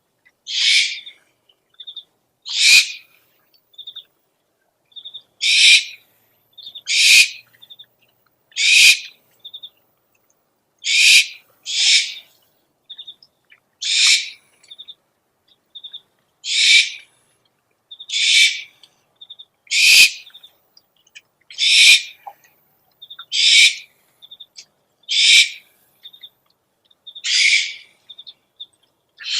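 Recorded owl calls played as a lure: a run of short, harsh, hiss-like calls repeating about every one and a half to two seconds, with brief high pips between them.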